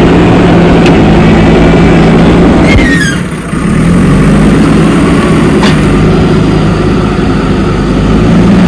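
JCB 3DX backhoe loader's diesel engine running steadily while at work. About three seconds in there is a short squeal falling in pitch, and the engine sound dips briefly before picking up again.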